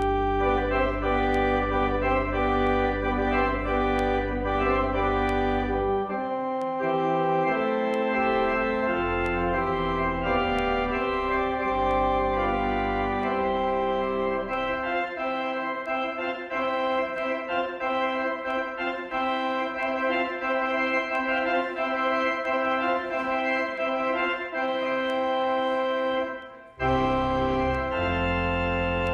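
Organ music: slow held chords, with a deep pedal bass under them at first that drops out about six seconds in and returns near the end, after a brief break in the sound.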